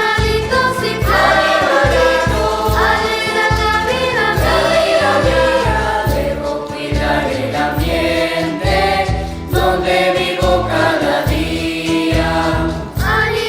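Children's choir singing a huayno with instrumental accompaniment over a steady, rhythmic bass beat.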